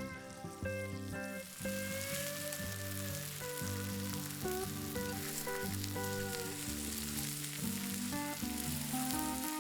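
Meat and sausages sizzling on a hot iron griddle plate, the hiss setting in about a second and a half in, over background music.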